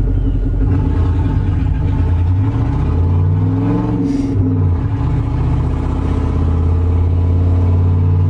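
Straight-piped Dodge 318 (5.2L) V8 with no muffler, running loud and deep as heard inside the truck's cab. It revs up once about three seconds in and drops back to a steady low run.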